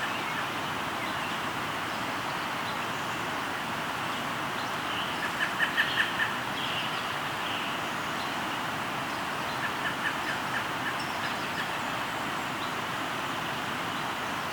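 River flowing with a steady rush, over which a bird calls in quick series of short repeated notes, loudest about five to six seconds in and again around ten seconds.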